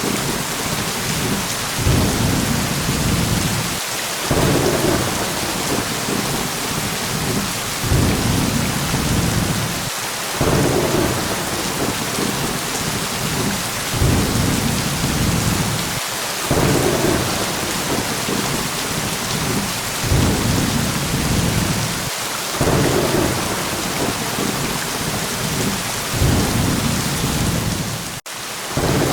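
Steady heavy rain with low thunder rumbles that swell and fade about every two seconds. There is a momentary dropout near the end.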